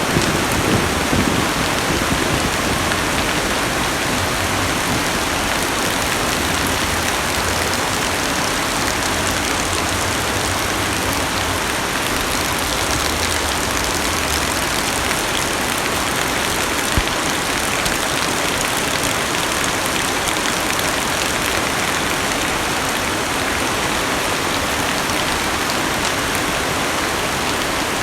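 Heavy rain beating steadily on a car's roof and windows, heard from inside the cabin, with a single sharper tap about two-thirds of the way through.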